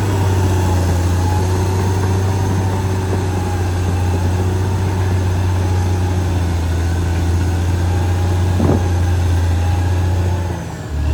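Caterpillar D6R XL bulldozer's diesel engine running steadily at a low, even note. There is a single sharp knock about nine seconds in, and the engine briefly drops in level just before the end.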